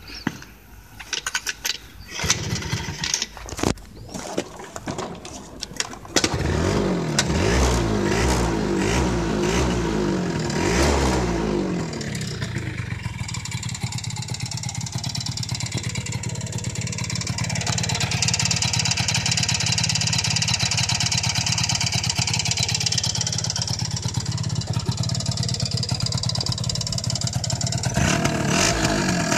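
Yamaha JOG scooter's two-stroke 80 cc engine being started. After a few seconds of short cranking bursts and knocks it catches, runs unevenly with wavering revs for several seconds, then settles into a steady idle.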